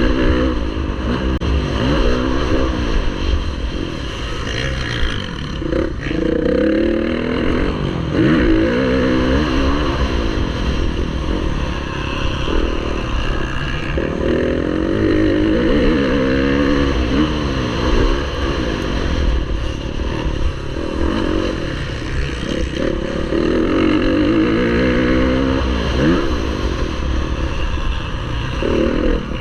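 Motocross bike engine under race load, revving up and dropping back again and again as it accelerates and shifts gears, over a steady low rumble.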